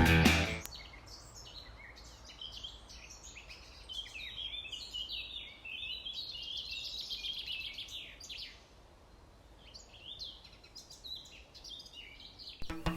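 Small birds singing and chirping, a busy run of song in the middle and scattered calls later, over faint outdoor background.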